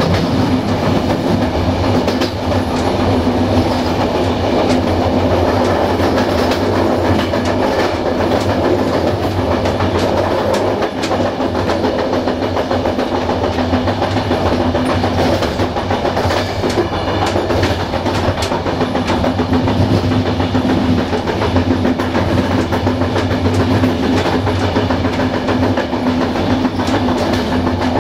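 Passenger train coaches running along the track: a steady rumble of wheels on rail with a constant hum and irregular clicks and knocks over rail joints.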